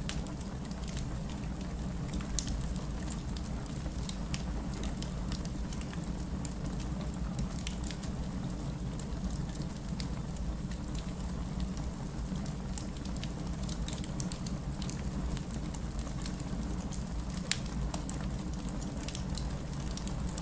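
Wood fire burning in a fireplace: a steady low rumble of flames with scattered crackles and snaps, two louder pops about two seconds in and near the end.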